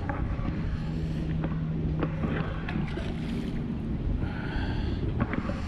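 Strong wind buffeting the microphone in a continuous low rumble, with a few faint clicks. Under it runs a steady low hum that steps up in pitch about halfway through.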